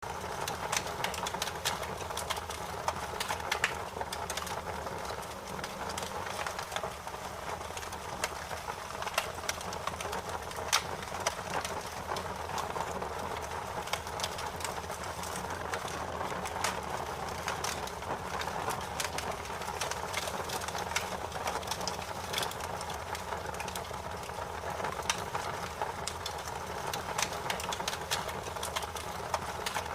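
Bonfire of burning wood crackling, with irregular sharp pops and snaps over a steady rushing hiss.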